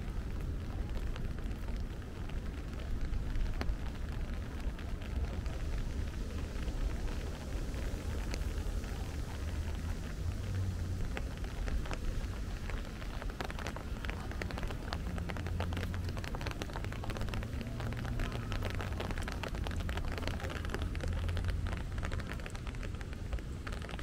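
Rain falling, with many small drop ticks that grow denser in the second half, over a steady low rumble.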